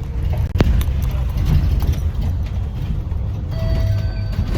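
Low, steady engine and road rumble inside a moving city bus, with a sharp click about half a second in and a brief steady tone near the end.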